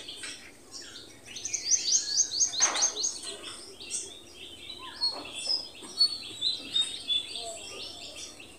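Small birds chirping and calling, many short high notes overlapping, with a fast run of repeated chirps about two seconds in.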